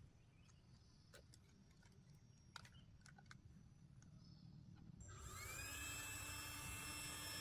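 A few faint clicks. About five seconds in, a small motor starts up with a brief rising whine and then runs steadily.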